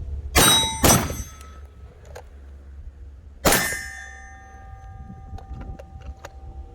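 Three gunshots, two in quick succession and a third about three seconds later, each followed by steel targets ringing with clear tones that hang on for a few seconds.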